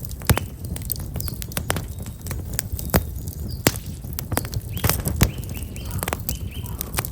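Campfire of black locust firewood crackling, with sharp irregular pops over a low steady rumble. From about five seconds in, a small bird chirps a quick run of short notes.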